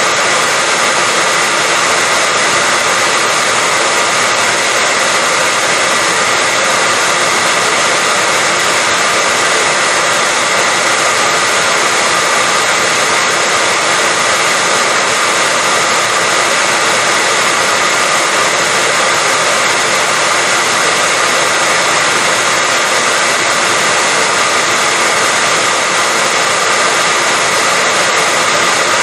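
Hair dryer running steadily: a constant rush of blown air with a faint, even motor whine, unchanging throughout.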